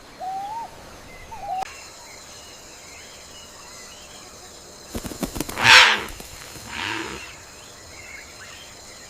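Night rainforest ambience. Two short chirping calls come in the first second and a half, then a steady high buzzing drone sets in. About five and a half seconds in there is a loud, harsh rasping animal call, with a softer one a second later.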